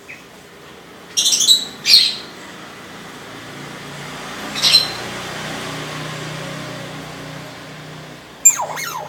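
Hill myna (beo) giving short, sharp, high squawks and chirps: a few in the first two seconds, one near the middle, and a loud gliding call near the end.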